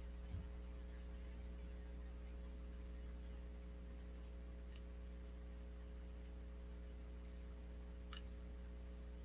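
Steady low electrical hum, with a faint thump about half a second in and two faint clicks later on.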